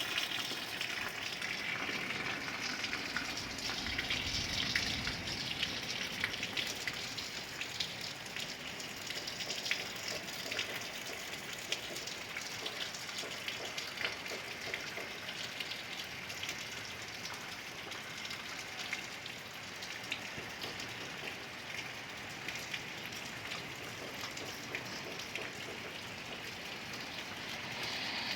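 Steady rain falling, with many sharp individual drop hits on a surface. A brief low rumble swells about four seconds in.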